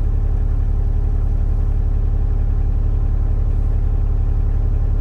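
Volkswagen 1.9 TDI (ALH) four-cylinder diesel engine idling steadily, still warming up after a cold start in freezing weather.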